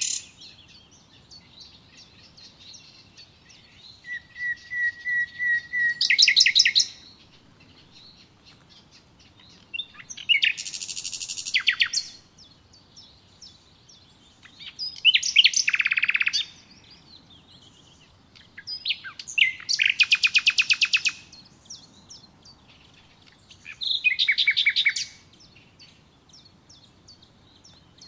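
Songbird singing: five loud, rapid trilled phrases a few seconds apart, the first opening with a short held whistle, with faint chirping in between.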